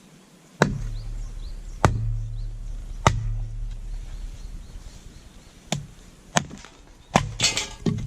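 Firewood being split with sharp chopping strikes: three evenly spaced blows about a second and a quarter apart, then after a pause three quicker blows near the end, the last followed by a short rasping crackle as the wood gives. A steady low hum runs under the strikes.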